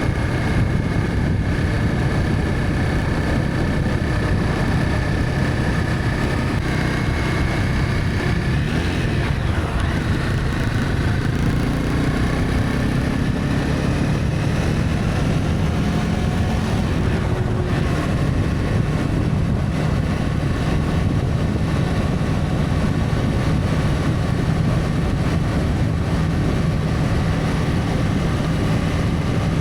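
Honda CB300F's single-cylinder engine running steadily under way, with wind and road noise.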